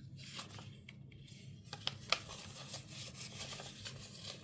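Paper stickers being handled and peeled from their backing sheet: a soft papery rustle and peel, with a couple of sharp little clicks about two seconds in.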